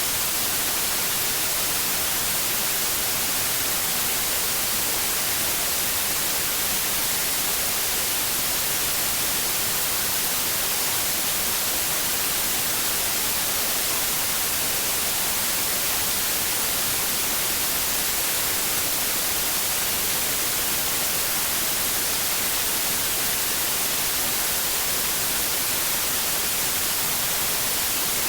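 Steady white noise: a constant, even hiss that stays the same throughout, brighter in the treble than in the bass.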